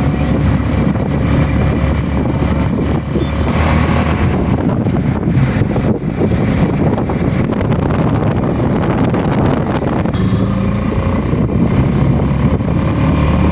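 Heavy rain pouring steadily, with wind rumbling on the microphone.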